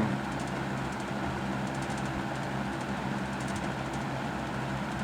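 Electric box fan running steadily on its medium speed: an even rush of air over a low, steady motor hum.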